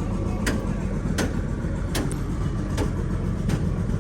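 Heavy six-cylinder diesel engine running with a steady low rumble, with a sharp click about every two-thirds of a second.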